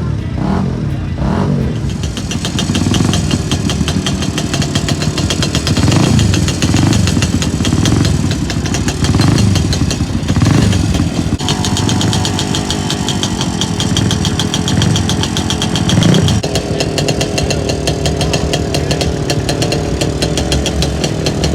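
Engines of classic cars and motorcycles running and revving as vehicles move off and drive past one after another, the pitch rising and falling several times.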